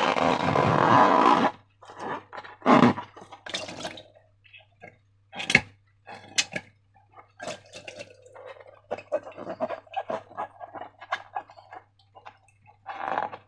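Wet slime squelching and squishing: a loud, dense squelch for about the first second and a half, then irregular small sticky clicks, pops and plops.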